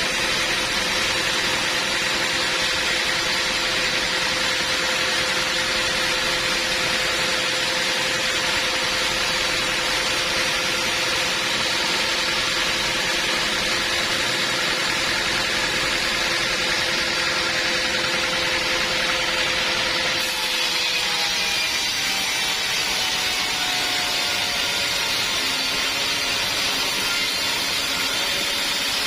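Sawmill machinery running: a steady, loud mechanical din with a constant whine. The sound changes abruptly about twenty seconds in, and a faint falling whine follows.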